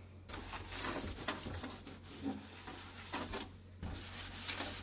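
Wiping and scrubbing inside a freezer to clear a soaked, stuck-on cardboard stain: irregular rubbing and scraping with small knocks, over a low steady hum.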